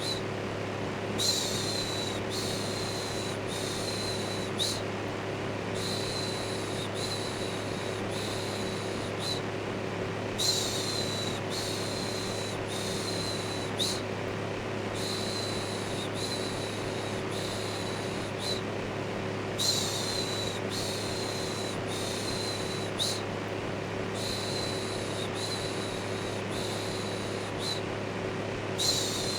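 Steady electric fan running with a low hum, overlaid by a repeated human shushing "shhh", about one shush a second in runs broken by short pauses.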